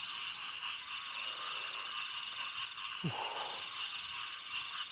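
Night chorus of insects: steady high-pitched trilling with a faster pulsing chirp above it. About three seconds in, a brief tone falls steeply in pitch.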